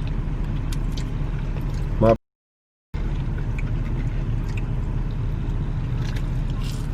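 Car running, a steady low rumble of engine and road noise. It cuts out completely for under a second about two seconds in, then carries on unchanged.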